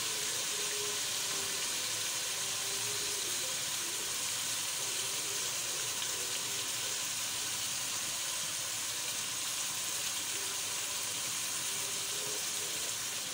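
Chicken pieces frying in oil with freshly added ginger-garlic paste: a steady sizzle that holds level throughout, with no stirring strokes.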